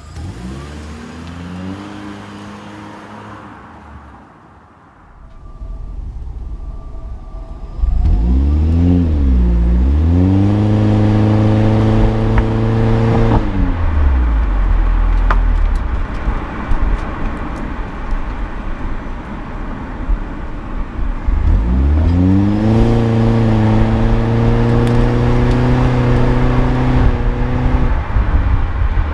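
Toyota Corolla Cross hybrid's 1.8-litre four-cylinder heard through a Rosso Modello DUALIST EX aftermarket muffler. The engine picks up just after the start, then revs louder about eight seconds in, dipping and climbing before dropping away, and revs again from about twenty-one seconds, holding a high steady note until near the end.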